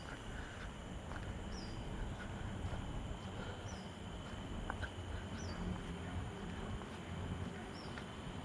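Outdoor ambience: a bird repeats a short high call, dropping in pitch then holding, about every two seconds, over a thin steady high whine and a low rumble.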